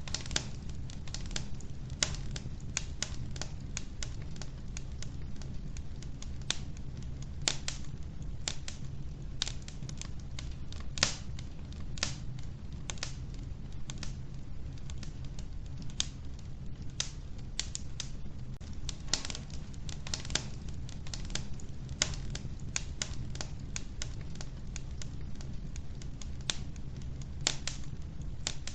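Wood fire crackling in a wood-burning stove: frequent, irregular sharp pops and snaps over a steady low rumble.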